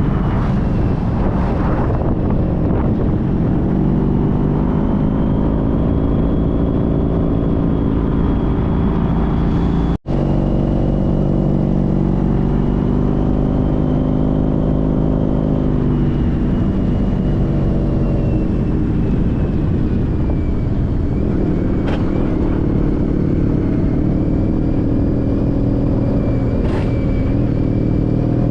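Honda CTX1300's V4 engine running steadily while riding, with the engine pitch gently rising and falling. The sound cuts out for an instant about ten seconds in.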